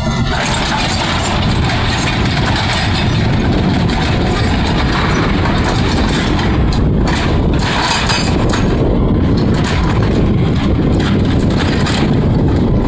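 Excavator working, its heavy diesel engine and machinery running steadily and loud.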